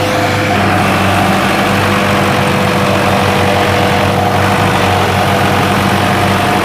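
A vehicle engine idling steadily at a constant speed.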